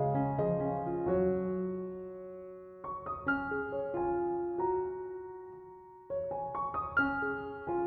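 Background piano music: gentle phrases of several notes struck close together, each left to ring and fade before the next phrase begins.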